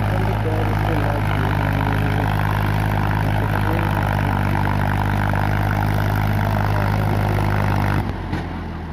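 Eicher 555 tractor's diesel engine running loud and steady with a fully loaded gravel trailer on a hill road; the sound breaks off abruptly about a second before the end, leaving a quieter engine sound.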